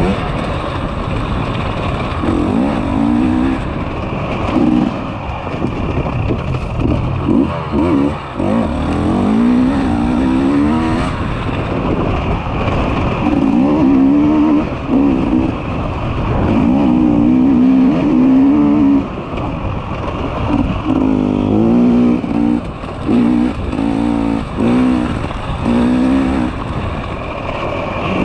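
Enduro motorcycle engine revving up and easing off over and over, its pitch climbing and dropping every second or two as the throttle is worked through a test section.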